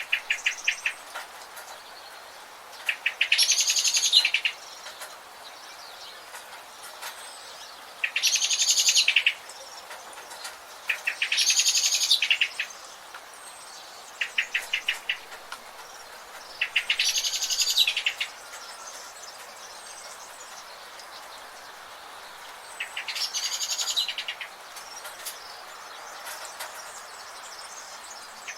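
A songbird singing the same phrase over and over, a quick run of short notes going into a dense trill, about every three to six seconds. A faint steady hiss of forest ambience lies underneath.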